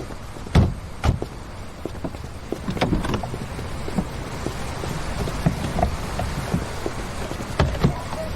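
Steady low rumble of a car with irregular clicks and knocks over it.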